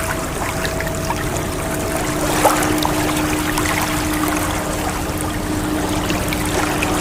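Ocean water washing and trickling steadily, with faint steady tones held underneath.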